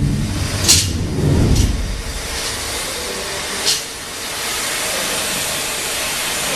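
Steady hiss of running industrial machinery, with a low rumble that fades out about two seconds in. Three sharp knocks: one early, one before the rumble ends, and one near four seconds.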